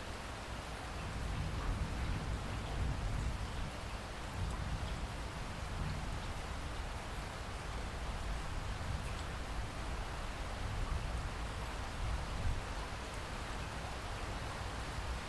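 Steady rain falling, an even hiss with a low rumble underneath that swells slightly about a second in.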